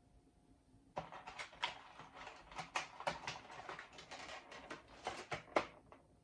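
Rustling and clattering of things being handled by hand, with many sharp clicks, starting about a second in and stopping shortly before the end.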